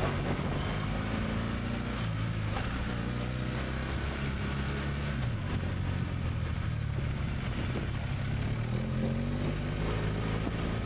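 An engine running steadily at low revs, its pitch dipping slightly and recovering a few times, over wind noise on the microphone.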